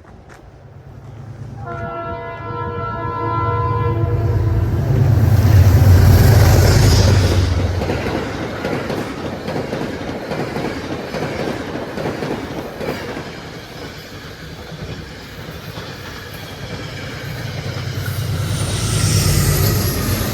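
A train sounds its multi-note horn for about two seconds, then runs past close by with a loud rumble and wheels clacking on the rails. The noise peaks a few seconds in, eases, and swells again near the end.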